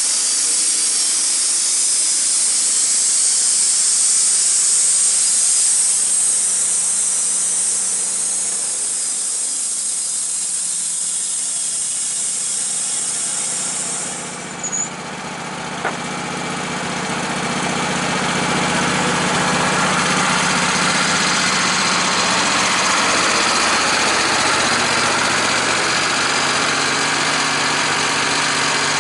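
A steady high hiss that fades about halfway through, with two short clicks, then an engine running steadily.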